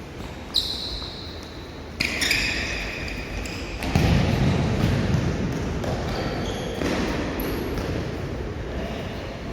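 Indoor futsal play: ball bounces and kicks on the court with sneakers squeaking sharply, twice in the first two seconds, then a louder stretch of court noise from about four seconds in.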